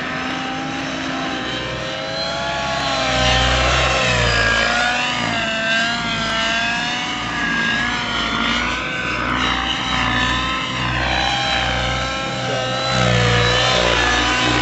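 Music played loud through a car audio system: a wavering melodic line over pulsing deep bass from the subwoofers.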